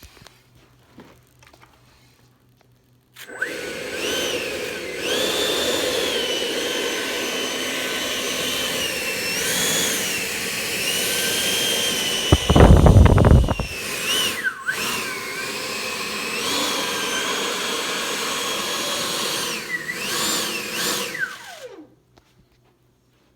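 Electric ducted-fan motor of an RC jet model running up, its whine rising and falling several times as the throttle changes, then spooling down near the end. Roughly halfway through there is a brief, loud, low rumble.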